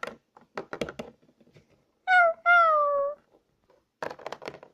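A loud meow-like cry in two parts, falling in pitch, about two seconds in, with light taps and knocks of small plastic toy figures being moved on a surface before and after it.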